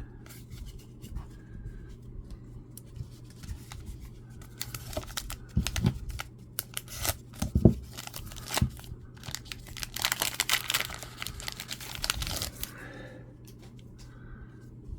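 A baseball trading-card pack wrapper being torn open and crinkled by hand: scattered crackles and rustles, busiest and loudest for a couple of seconds about two-thirds of the way through.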